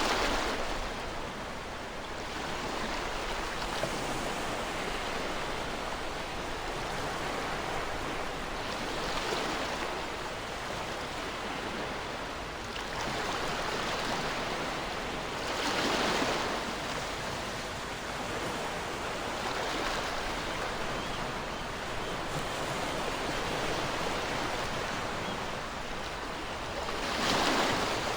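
Ocean waves breaking on a shore over a steady wash of surf, with larger waves swelling up about every seven to eleven seconds.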